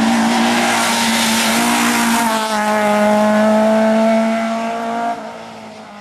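Race car engine at high revs, its note held fairly steady with a small shift in pitch midway, then dropping away sharply about five seconds in as the car moves off.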